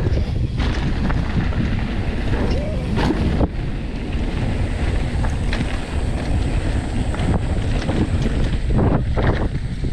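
Wind buffeting the microphone of a camera on a moving mountain bike, with knocks and rattles from the bike over rough trail, most of them about three seconds in and near the end.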